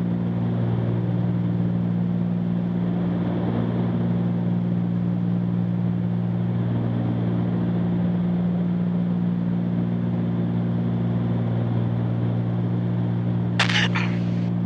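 Steady drone of the Cessna 310Q's twin piston engines and propellers heard in the cabin in flight. A brief, sharp burst of sound cuts in near the end.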